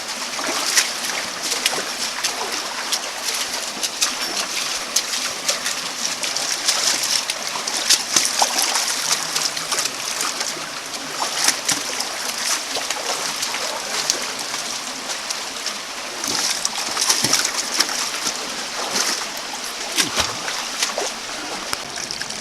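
Creek water running and splashing: a steady hiss broken by many small, sharp splashes.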